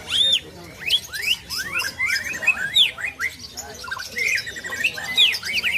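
Green leafbird (cucak ijo) singing a fast, varied run of sweeping whistled notes, rising and falling one after another.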